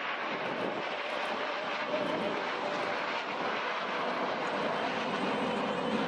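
Aermacchi MB-339 jet trainers of the Frecce Tricolori flying their display, a steady rushing jet noise. A faint steady whine comes in about two seconds in.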